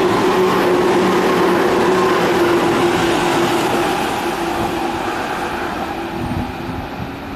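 Electric commuter train running on the tracks, a loud continuous rail noise with a steady hum in it, which fades gradually over the last few seconds.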